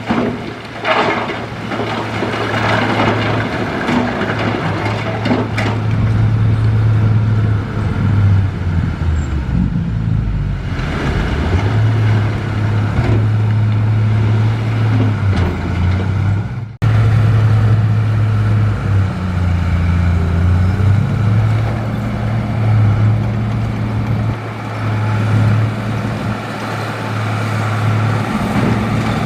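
Heavy diesel earthmoving machinery running, its engine note shifting up and down with load. There are a few sharp knocks in the first several seconds, and the sound breaks off for an instant just over halfway through.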